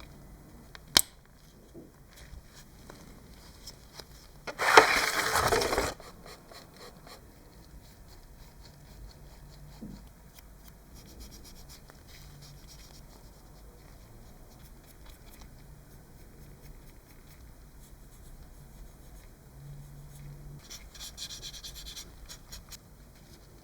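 Light scratching and rubbing from hand work on a small model, with a sharp click about a second in and a loud noisy burst lasting just over a second around five seconds in.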